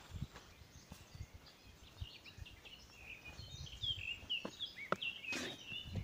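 A small songbird singing a quick run of short chirping notes in the second half, over soft low thuds and rustling from someone walking through the garden.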